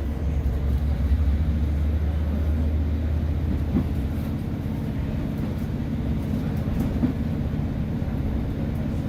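Class 150 diesel multiple unit under way, heard from aboard: a steady low drone from its underfloor diesel engine over the rumble of the wheels on the rails. The drone is strongest in the first few seconds and eases a little about four seconds in.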